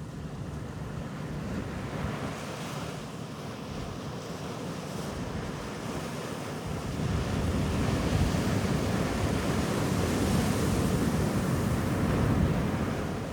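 Sea waves breaking and washing up a beach; the surf swells louder about seven seconds in and eases off near the end.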